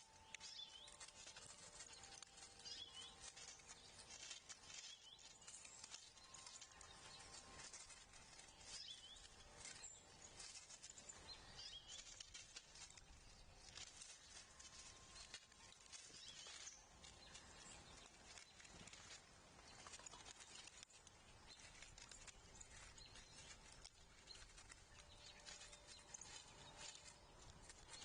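Faint outdoor ambience: scattered soft clicks and rustles, with a few brief, high bird chirps now and then.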